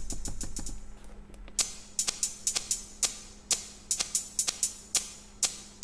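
Electronic drum pattern played back from Native Instruments Maschine in its SP1200 vintage engine mode, which adds a little grit to the sound. A low bass under quick even hits drops out about a second in, leaving sharp percussion hits in an uneven rhythm.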